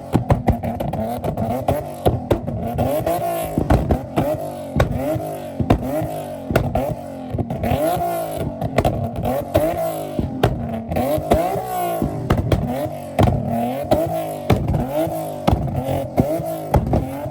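A car engine revving over and over, its pitch climbing and falling about once a second, with sharp cracks and clicks throughout.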